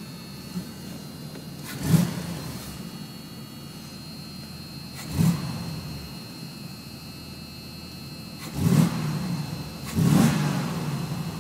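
1974 Corvette's 350 L82 small-block V8 with a Rochester Quadrajet carburettor idling, heard from inside the cabin, with four quick throttle blips that each rev up sharply and drop back to idle.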